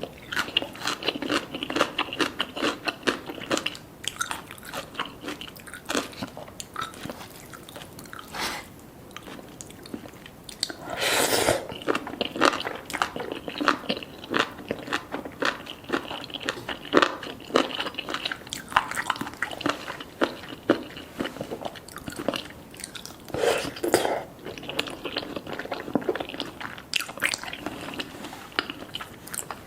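Close-up crunching and chewing: many irregular crisp crunches, with a longer crunching swell about a third of the way in and another near the end.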